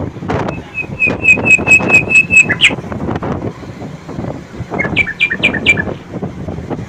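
A songbird singing: a run of quick, evenly repeated high chirps that ends in a rising note, then a short burst of fast falling notes a few seconds later, over a steady noisy background.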